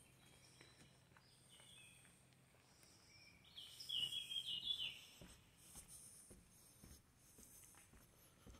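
Quiet outdoor ambience with a bird calling in a quick run of high chirps for about a second and a half near the middle, the loudest sound. Faint footsteps on the wooden boards of a footbridge.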